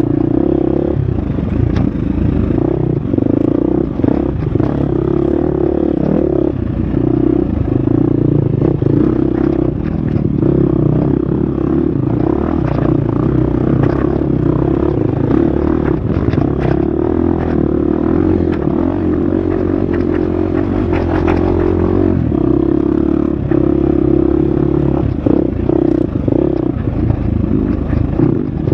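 Husqvarna FX 350 four-stroke single-cylinder dirt bike engine running hard on a trail, its pitch rising and falling with the throttle. Short clatters and knocks from the bike bouncing over rough ground come through.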